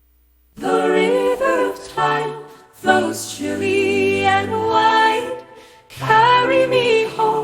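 AI-generated (Suno) choir singing a spiritual in an a cappella style, starting about half a second in, in sung phrases with short breaks between them.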